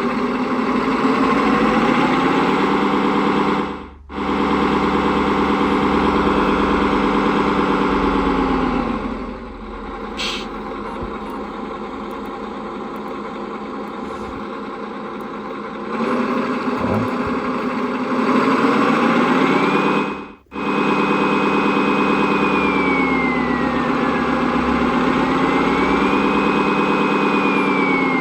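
Servonaut sound module playing a simulated truck diesel engine through its speaker. It is revved up and held, then drops back to idle, twice, with two brief dropouts. In the second half a high turbo whistle rises, holds and falls with the revs, as the turbocharger sound level is set.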